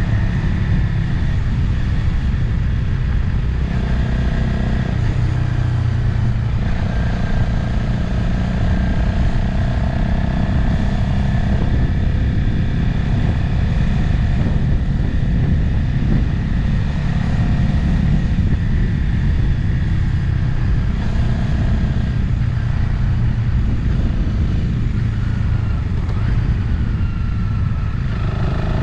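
Motorcycle engine running on the move, its note shifting a little up and down with the throttle, under steady wind noise on the microphone.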